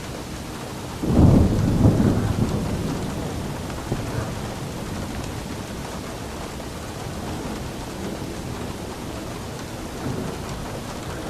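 Steady rain falling, with a rumble of thunder that breaks in suddenly about a second in and fades away over several seconds.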